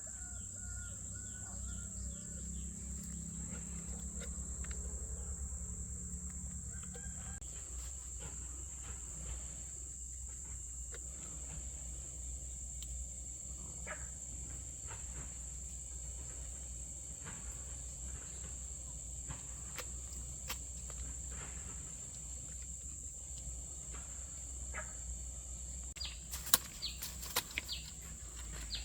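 Steady high-pitched drone of insects, with a low rumble underneath and scattered light clicks. A few sharper knocks come near the end.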